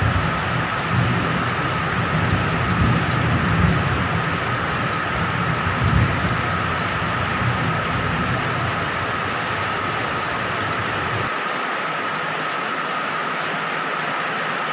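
Steady heavy rain, with distant thunder rumbling low in the first half and dying away. A thin, steady high tone runs under the rain.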